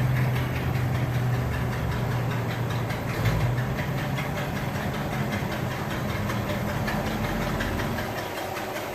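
The 1959 Cadillac DeVille's 6.4-litre (390 cu in) V8 running steadily, with a change in engine note about three seconds in.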